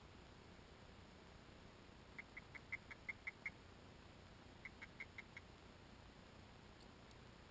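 A bird calling in two quick runs of short, high chirps, about eight and then about five, heard faintly through a waterproof camera case.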